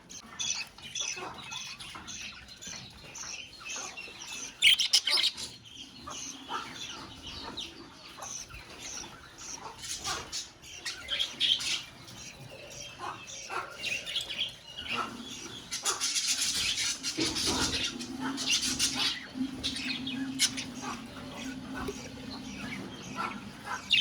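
A colony of budgerigars chirping and chattering continuously in many overlapping short calls, with louder, denser flurries about a fifth of the way in and again past the middle.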